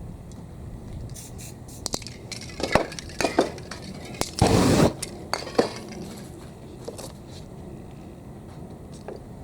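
A spray-paint can hissing in one short burst about halfway through, the loudest sound here. Around it come several sharp clinks and knocks of cans and tools being handled.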